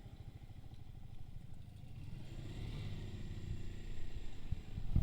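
Motorcycle engine running at low speed with a rapid low pulsing, growing louder over the last couple of seconds as a faint rising tone comes in.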